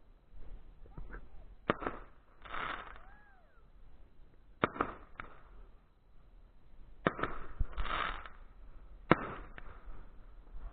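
Fireworks going off: four sharp bangs two to three seconds apart, with smaller pops and short bursts of noise between them.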